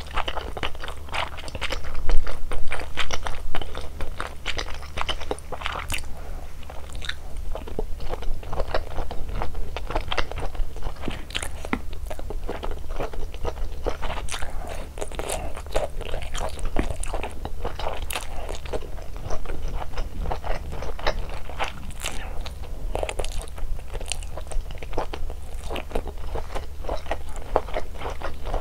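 Close-miked chewing and crunching of malatang: a dense run of crisp bites and crunches, loudest about two seconds in.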